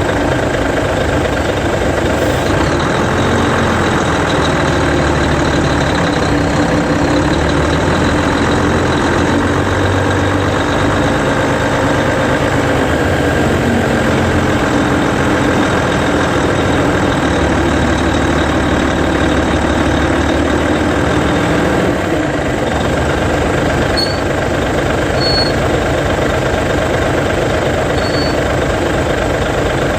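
Hino Selega's E13C 12.9-litre inline-six diesel running as the tour bus creeps around the yard, its pitch rising and falling gently with the throttle. About two-thirds of the way through the bus pulls up, and a few short high brake squeals follow.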